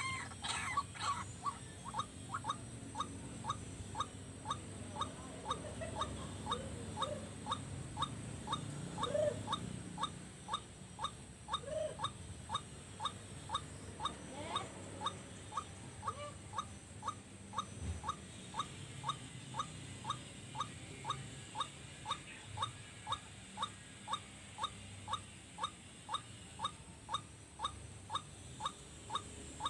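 White-breasted waterhen (ruak-ruak) calling a long monotonous series of short notes, about two a second, used as a decoy to lure wild waterhens.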